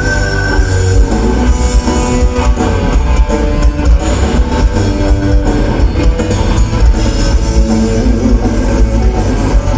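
Live rock band playing loudly: electric guitar over bass and a drum kit.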